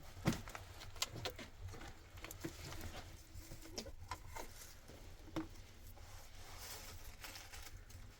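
Irregular light knocks and clicks, a sharper one near the start and another about a second in, over a low steady hum.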